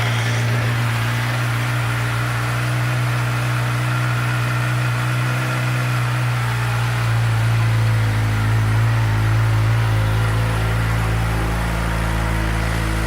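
2015 Suzuki GSX-R600's inline-four engine, stock exhaust, idling steadily just after being started.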